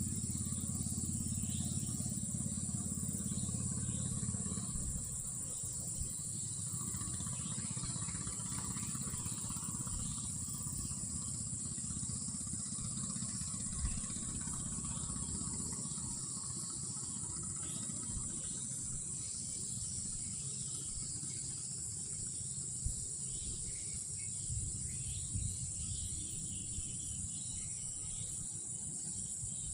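Chorus of night insects, a steady high-pitched drone. A low rumble under it fades out about five seconds in, and there are a couple of faint knocks.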